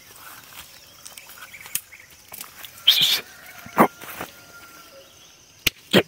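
Outdoor birds calling: scattered short calls and chirps, with the two loudest short sounds about three and four seconds in.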